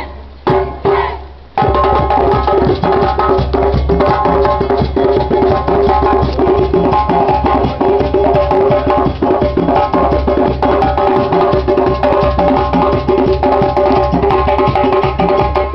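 Percussion-led music for an Afro dance: a few separate drum strikes at first, then about a second and a half in the full ensemble comes in with fast, dense drumming over steady pitched tones.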